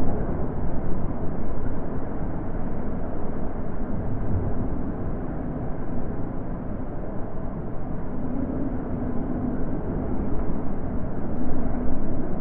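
Natural wind blowing steadily: a low, dull rush with nothing high in it, swelling a little near the end.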